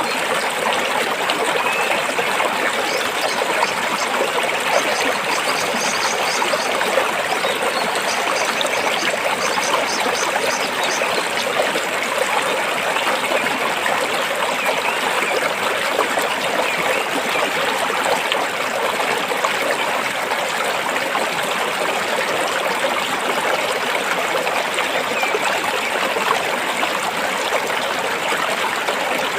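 A stream running and trickling over rocks, a steady even rush of water. For several seconds in the first third, a faint, rapid, high-pitched pulsing sounds above the water.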